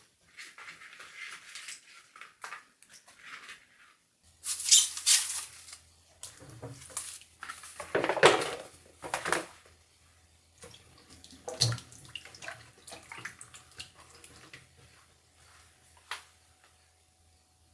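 Kitchen sink work: two short runs of water about 4 and 8 seconds in, with scattered clinks and knocks of dishes. A low steady hum starts about 4 seconds in.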